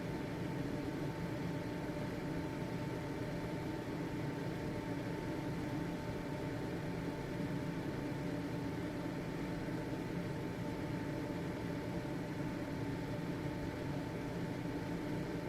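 Household ventilation fan running steadily: an even motor hum and airflow noise with a faint steady whine, unchanging throughout.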